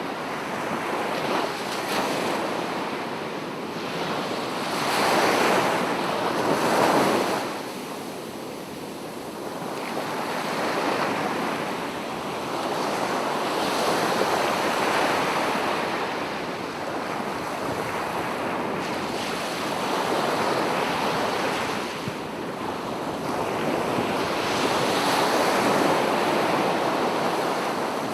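Sea waves breaking and washing up a beach, the surf swelling and ebbing every few seconds, loudest about five and seven seconds in.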